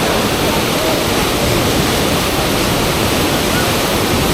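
Loud, steady rush of fast river water churning through a standing wave used for river surfing.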